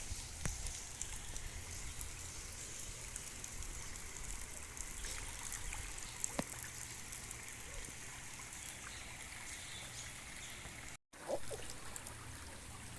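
Heavy rain falling, with water trickling and running and scattered small drop ticks. The sound drops out for a moment about eleven seconds in.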